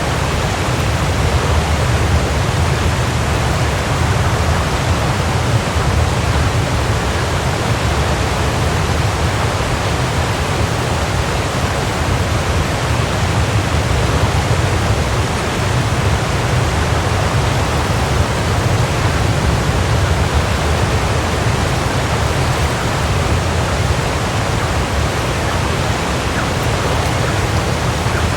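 Waterfall: a steady rush of falling water with a deep low rumble under an even hiss, unchanging throughout.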